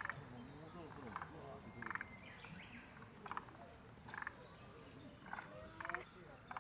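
Frogs calling: short, rapid rattling pulse trains repeated about once a second, with several calls overlapping.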